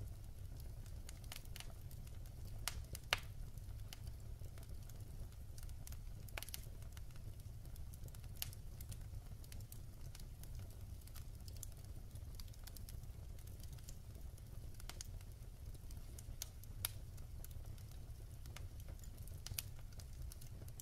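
Wood fire in a fireplace crackling, with irregular small snaps and pops of the burning logs, the sharpest about three seconds in, over a steady low rumble.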